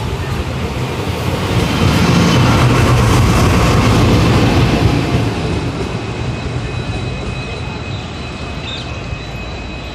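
Indian Railways train running along the tracks, a steady rumble of wheels and coaches that swells about two seconds in and eases off after about five seconds as it passes.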